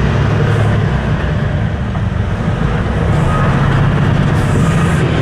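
Semi truck tractor's diesel engine running with a steady low hum while the truck is under way.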